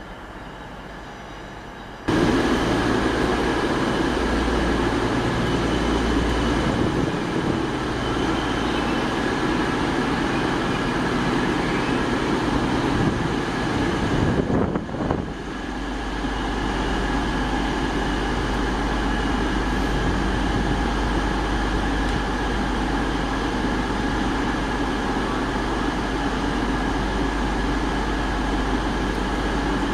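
Train running, with a steady engine drone. It starts suddenly about two seconds in and changes briefly about halfway through.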